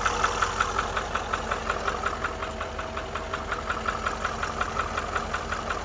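Range Rover Vogue L405 engine idling with a quick, even knock, about six or seven a second, coming from the upper right side of the engine.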